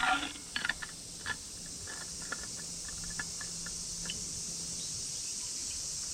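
Steady, high-pitched insect chorus, with scattered light clicks and knocks over the first few seconds.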